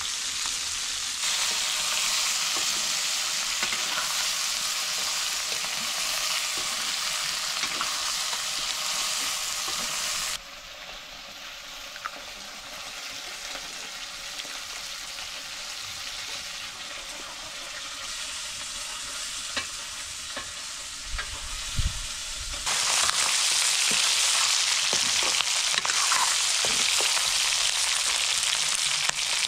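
Chicken pieces sizzling in hot oil in a pan while being stirred, with a few light scrapes and clicks of the spoon. The sizzle drops quieter suddenly about a third of the way in and returns louder about three-quarters through.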